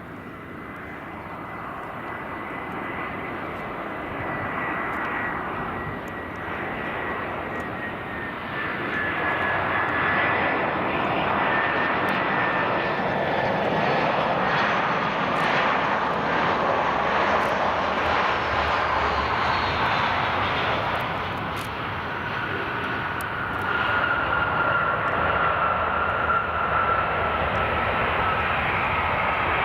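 Jet airliner's engines passing close, growing louder over the first ten seconds and then staying loud, with a high engine whine that slowly falls in pitch.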